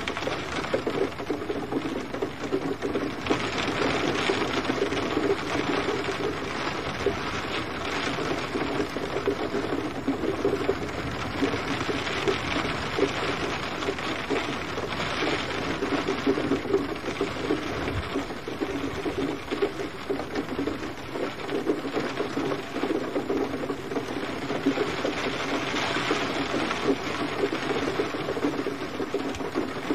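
Steady, gentle rain falling, a dense crackle of many small drops that swells and eases slightly every few seconds.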